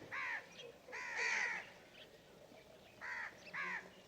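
A bird calling in short, arched calls, about five in all, some in quick pairs with pauses between.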